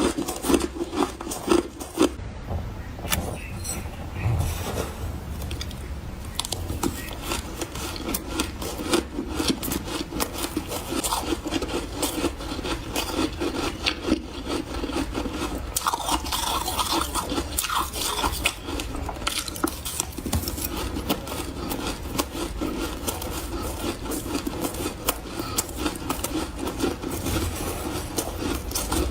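Refrozen powdery ice crunching and rasping close to the microphone, a steady run of rapid small crackles.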